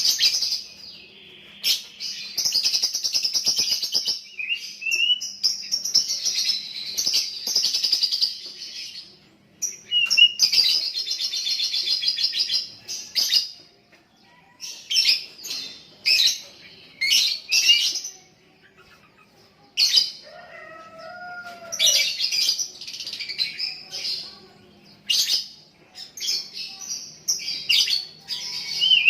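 Young lovebird singing ngekek-style: long unbroken runs of shrill chattering trills lasting several seconds, then shorter bursts of chirps with brief pauses.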